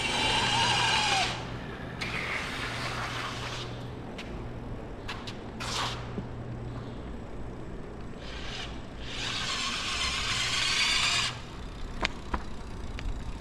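Electric scooter motor whining in bursts as the throttle is squeezed and let off, over a steady low hum and wind rumble on the microphone.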